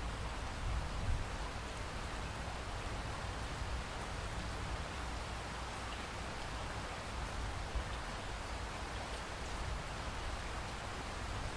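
Steady rainfall, an even hiss of drops with a low rumble underneath.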